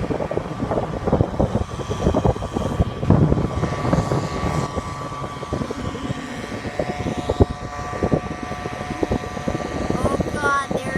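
Mosquito fogging truck's sprayer engine and blower running as the truck drives past, with a steady high whine over the engine noise.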